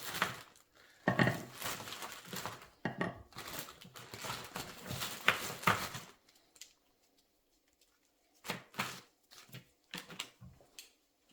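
Metal parts and hand tools clinking and knocking while new wheel bearings, seals and a sprocket are fitted to a motorcycle wheel: a busy run of sharp knocks for about six seconds, then a pause, then a few more knocks.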